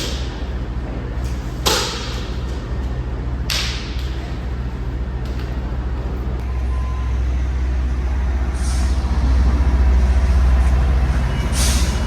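Heavy truck's diesel engine idling, with short hisses of released air four times from its air brake system. The idle grows louder about two-thirds of the way through.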